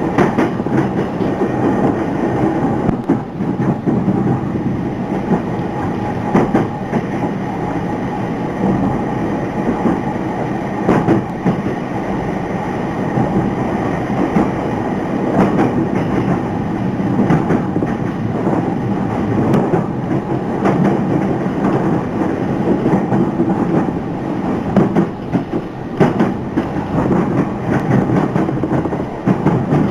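Running sound of a JR Takasaki Line electric train heard from inside the car: a steady rumble of wheels on rail, with clicks as the wheels pass over rail joints.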